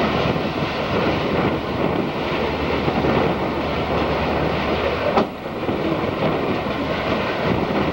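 Freight train with diesel locomotives rolling across an elevated flyover, a steady, dense noise of engines and wheels. There is a single sharp knock about five seconds in.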